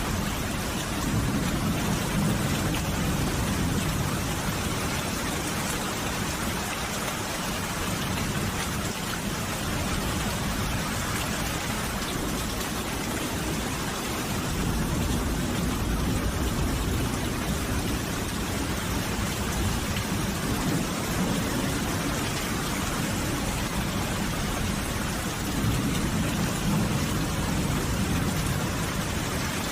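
Steady rain falling: an even hiss, with a low rumble that swells and fades a few times.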